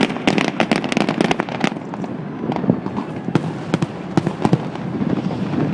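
Fireworks going off, heard through a cell phone's microphone: a rapid string of sharp cracks for the first second and a half or so, then scattered bangs over a steady rumble of the display.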